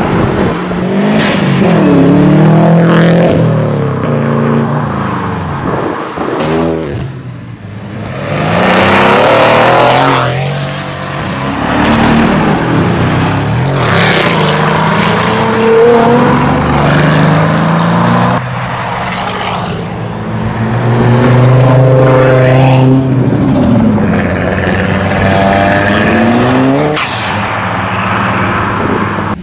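Several performance cars accelerate hard in turn, among them a Mercedes C63 AMG, a Mansory G-Class and Ford Focus RS hatchbacks. Each engine revs up with rising pitch, drops at the gear change and climbs again, loud from the exhaust, in about five surges.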